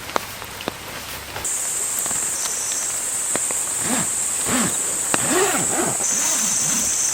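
Insects buzzing in a steady high-pitched chorus that starts abruptly about a second and a half in. A few sharp clicks, and from about four seconds some low warbling calls repeated about twice a second.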